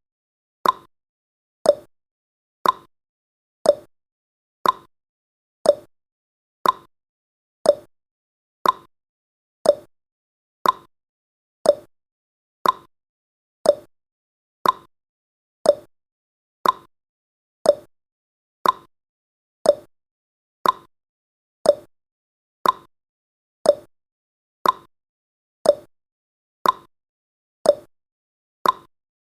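A countdown timer's ticking sound effect: short, sharp ticks exactly once a second, with silence between them.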